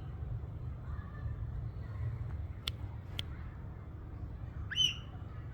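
A ringneck parrot gives one short, shrill call near the end, rising at its start. Two sharp clicks come about half a second apart in the middle, over a steady low hum.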